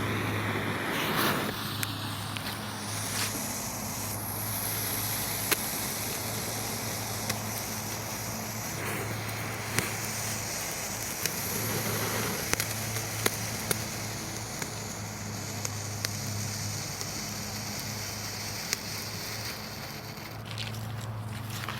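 Small ground firework fountain burning with a steady hiss and scattered crackles.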